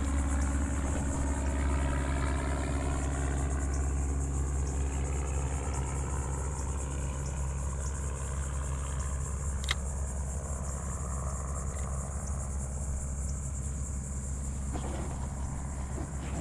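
A boat motor running steadily with a low, even hum, over a constant high-pitched buzz of insects.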